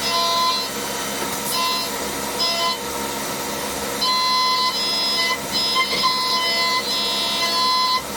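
CNC milling machine cutting metal: a steady high whine with overtones starts and stops several times as the tool moves in and out of the cut, over the constant running noise of the machine.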